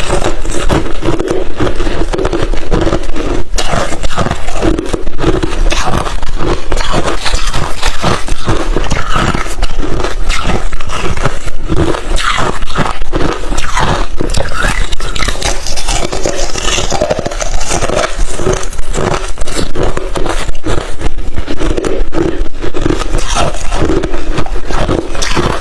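Close-miked chewing of crushed thin ice chips: a dense, unbroken run of crackly crunches.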